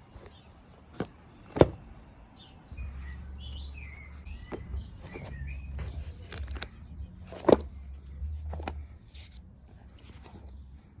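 Birds chirping, with a few sharp clicks over a low background hum; the loudest clicks come about a second and a half in and again about seven and a half seconds in.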